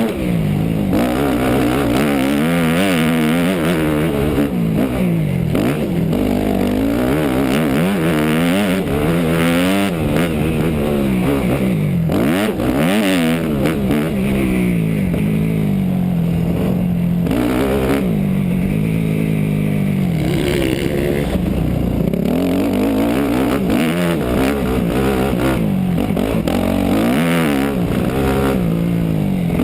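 250 cc four-stroke motocross bike engine, heard onboard, revving up and dropping back over and over as the throttle is opened and shut.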